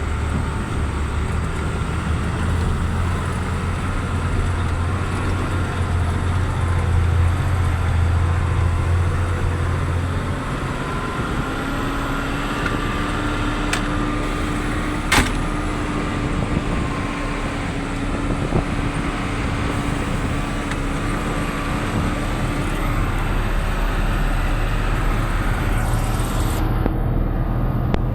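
A motor vehicle's engine and road noise, running steadily throughout, with a single sharp click about halfway through.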